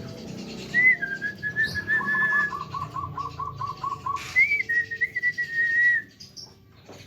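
Javan myna whistling: a clear held whistle, then a run of about ten quick short notes, then another held whistle that stops about six seconds in.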